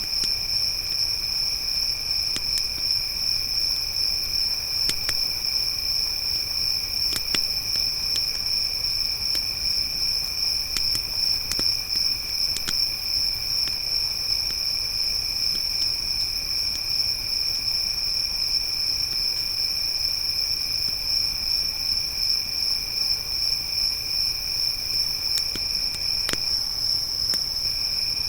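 A chorus of crickets chirring, a steady high-pitched trill, with a lower second trill that stops for about a second near the end. Occasional sharp pops and crackles from a wood campfire are heard over it.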